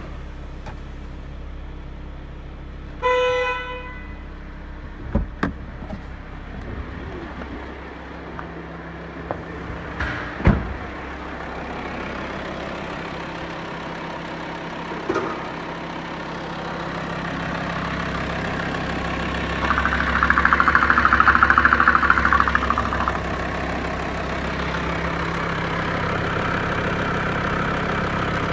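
Volkswagen Touareg BAC 2.5 L five-cylinder TDI diesel running steadily. A short beep sounds about three seconds in, a few sharp knocks follow, and past the middle it grows louder, with a loud buzzing stretch of about three seconds.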